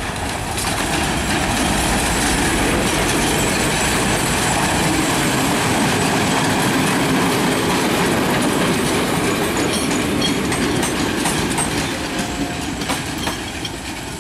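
A passenger train hauled by a Class M2 diesel locomotive passing close by: the locomotive goes past, then a long run of coaches rolls by with a steady clatter of wheels over the rail joints. Near the end the noise eases, leaving a few separate clacks.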